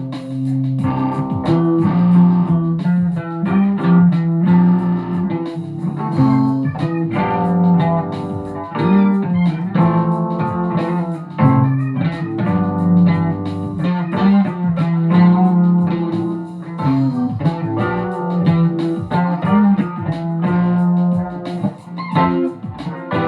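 Guitar music: a plucked guitar playing a run of notes over a low bass line.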